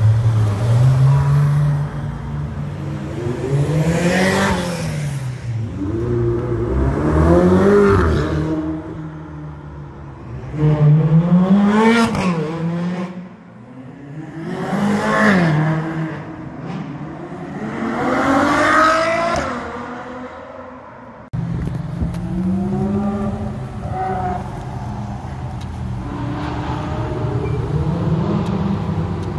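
Ferrari sports car engines revving as the cars drive past one after another: about five separate rev blips, each rising and then falling in pitch. About two-thirds of the way in the sound changes abruptly to a steadier engine drone with mild rises.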